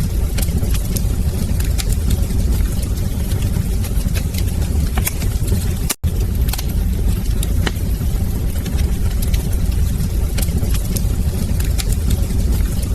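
Wood fire in a fireplace crackling: a steady low roar of flames with frequent sharp pops and snaps. The sound cuts out for an instant about six seconds in.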